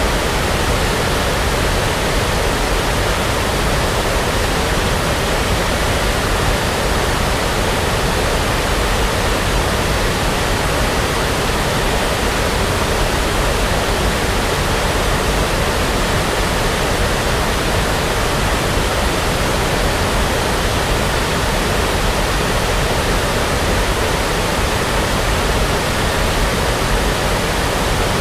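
Steady brown noise: an even, deep rushing hiss with no changes, like a distant waterfall.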